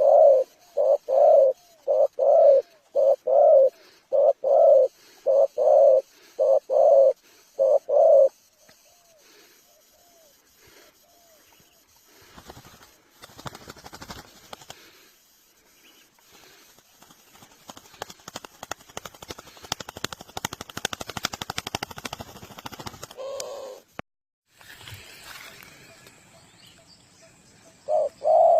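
Spotted dove (tekukur) cooing, a rapid run of loud, evenly spaced coos for the first eight seconds or so, then fainter coos. From about twelve seconds in, a long dense rapid crackling of clicks takes over for about ten seconds, then stops abruptly, and the coos return near the end.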